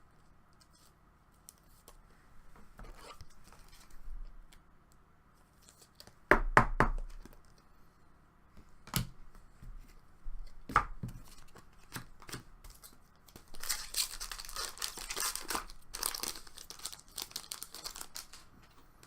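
Trading card pack wrapper torn open and crinkled by hand, with several sharp clicks and knocks of cards being handled before it; the tearing and crinkling is a few seconds long, starting past the middle.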